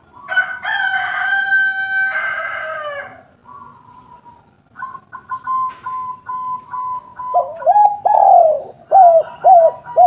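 Spotted doves (tekukur) calling, with a run of short repeated notes from about halfway and a series of four or five loud curved coos near the end. It opens with a long drawn-out two-part call lasting about three seconds that falls in pitch at its end.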